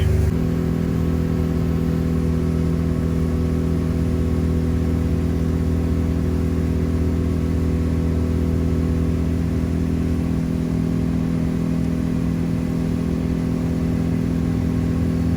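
Motorboat engine running steadily underway. About half a second in, the engine note shifts down and gets a little quieter, then holds even.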